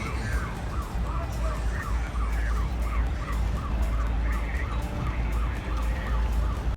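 A siren sounding a fast yelp, its pitch sweeping up and down about three times a second, over a steady low rumble.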